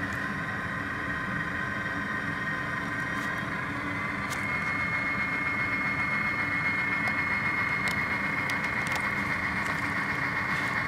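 Sound-decoder EMD 567D diesel prime mover sound from an HO-scale GP30 model, running steadily through the model's small speaker. A high whine grows louder about four seconds in.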